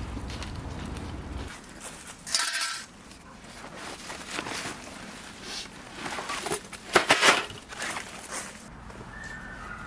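Camping gear being handled: rustling and crunching, with a few short metallic clinks in two louder clusters, one about two and a half seconds in and one near the middle.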